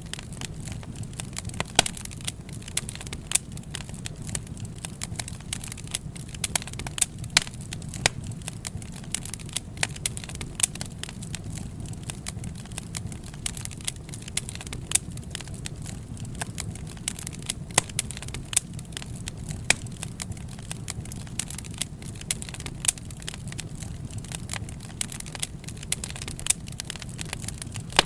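Wood fire burning, with irregular sharp crackles and pops from the burning wood over a steady low rumble of the flames.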